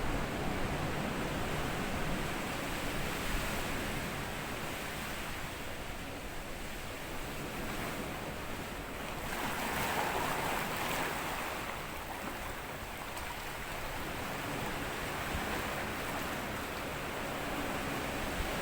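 Small sea waves washing up onto a sandy beach in a continuous wash, with one wave swelling louder about halfway through.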